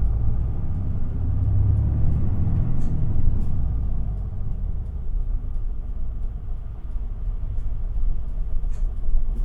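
Isuzu Erga city bus (QPG-LV234L3) heard from inside the cabin while driving: a steady low rumble of its diesel engine and drivetrain, heavier for the first four seconds and then easing off, with faint scattered clicks.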